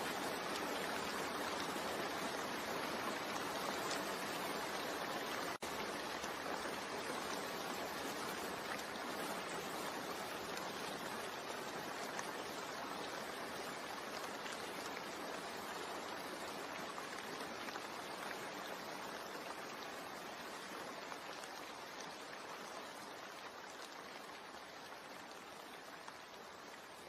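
Steady rain blended with white noise: an even, unbroken hiss that slowly grows quieter. There is a split-second dropout about five and a half seconds in.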